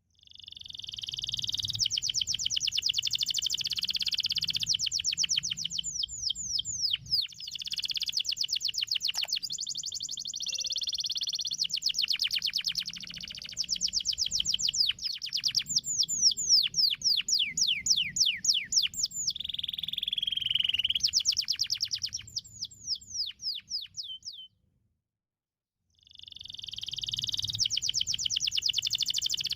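Domestic canary singing long, fast rolling trills mixed with runs of quick downward-sliding notes. The song breaks off for about a second and a half near the end, then the trilling starts again.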